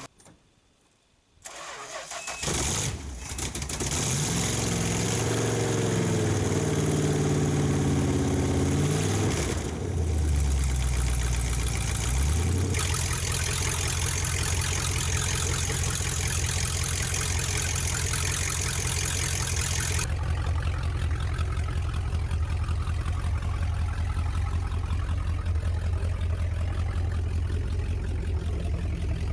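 1969 Chrysler Newport's 383 V8 starting up about two seconds in. Its revs rise and fall unevenly for several seconds and dip once, then it settles into a steady idle.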